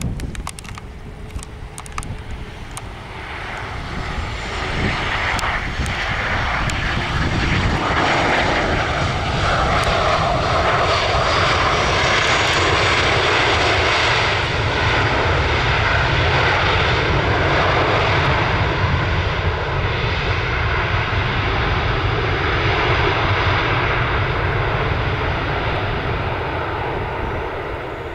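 Boeing 737 jet engines during landing. The engine noise builds over several seconds, holds loud for most of the time, then eases off near the end.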